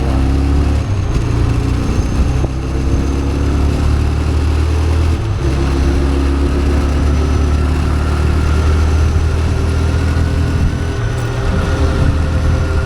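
TVS Raider 125's single-cylinder engine running under way on the road, its pitch rising a little in the second half, over a heavy wind rumble on the action camera's built-in microphone.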